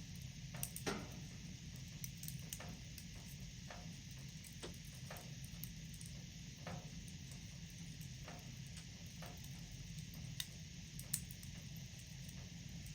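Wood fire in a fireplace crackling: irregular sharp pops and snaps, roughly one or two a second, over a steady low hiss. The loudest snaps come about a second in and near the end.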